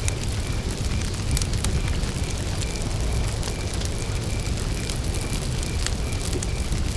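Wood campfire burning with a steady low rumble and scattered sharp crackles and pops. A cricket chirps steadily behind it, a short high note about two to three times a second.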